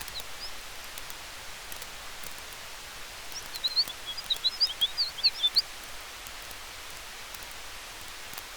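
Campfire crackling faintly over a steady hiss of wind through trees, broken about three seconds in by a quick run of high, short bird chirps lasting about two seconds.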